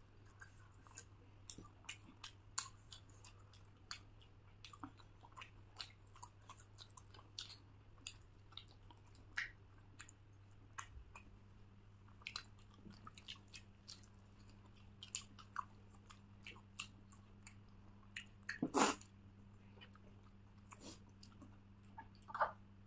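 Close-up eating: faint chewing with many small wet mouth clicks and smacks, and one louder burst of mouth noise about 19 seconds in.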